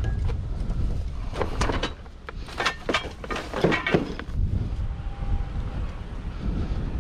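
Wind rumbling on the microphone, with a run of knocks and rustles about a second and a half in, from junk being handled and sorted.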